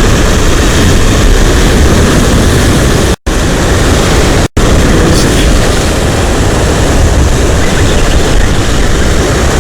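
Loud, steady rushing noise, heaviest in the low end: wind buffeting the microphone. It cuts out abruptly twice, about three seconds and four and a half seconds in.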